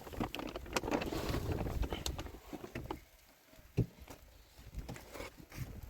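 Irregular knocks and rustling, busiest in the first half, with one sharp knock about four seconds in.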